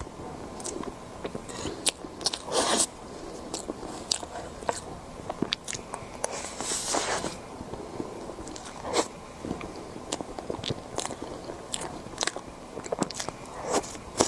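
Close-miked eating sounds: a person biting and chewing, with many irregular crisp clicks and three longer, louder chewing sounds.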